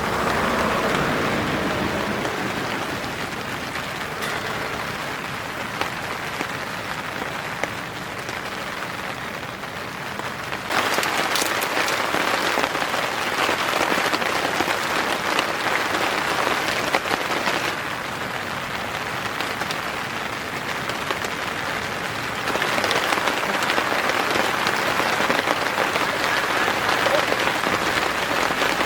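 Rain falling in a steady hiss of drops. It grows abruptly louder about 11 seconds in, drops back near 18 seconds and rises again near 22 seconds.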